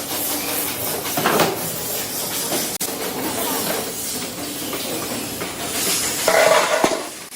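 Metal-workshop noise: a steady hiss with scattered metal clinks and knocks, getting louder for a moment near the end.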